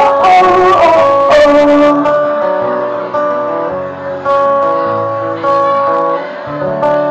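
Live acoustic guitar music: a slow instrumental passage of chords and held notes, changing about once a second.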